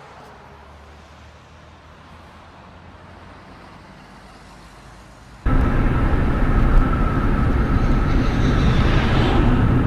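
Vehicle road noise: a low, quiet hum, then about halfway through it cuts abruptly to loud, steady driving noise with a faint high whine.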